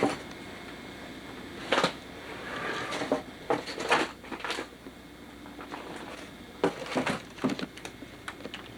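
Irregular knocks and clatters of hard objects, about a dozen sharp hits spread unevenly, with a short scraping stretch around three seconds in.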